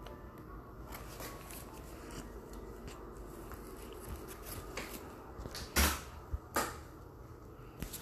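A series of light clicks and knocks, with two louder thumps a little under six seconds in and a moment later, like objects being handled and set down.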